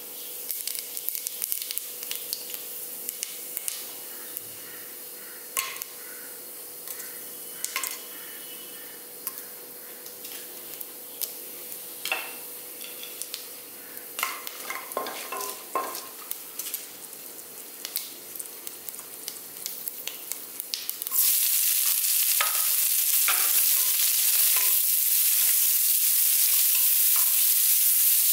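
Whole spices crackling in hot oil and ghee in a steel pressure cooker, with many scattered sharp pops. About three quarters of the way through, sliced onions go into the fat and a loud, steady sizzle takes over as they are stirred.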